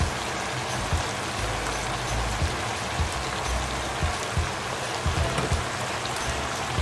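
Chicken, pork and ginger sizzling steadily in a stone-coated nonstick wok during a stir-fry, with a few light clicks scattered through.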